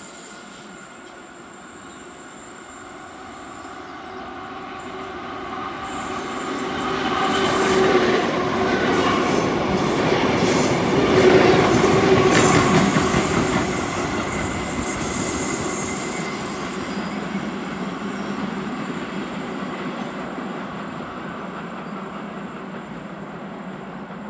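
Century-old Tait electric suburban train passing: a rumble that builds as it approaches, the wheels clicking over rail joints and the carriages rattling as it goes by about eight to thirteen seconds in, then slowly fading as it pulls away.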